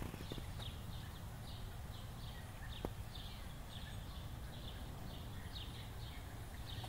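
A small bird chirping repeatedly, short high notes about two or three a second, over a steady low hum.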